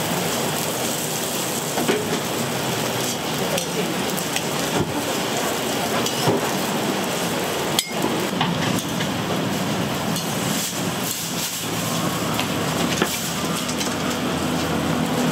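Pork buns and scallion pancakes sizzling in oil on a flat steel griddle: a steady hiss, broken by a few sharp knocks, the strongest about eight seconds in.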